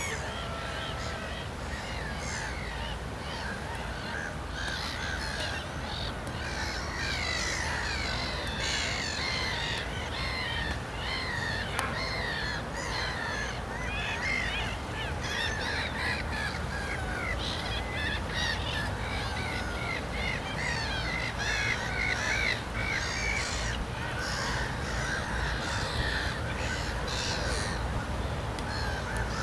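A flock of birds calling all at once: a dense, unbroken chatter of short overlapping calls, over a steady low background rumble.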